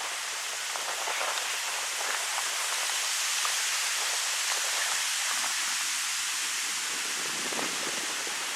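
Wind blowing through birch trees: a steady high hiss of rustling leaves that swells a little in the middle, with a few faint ticks.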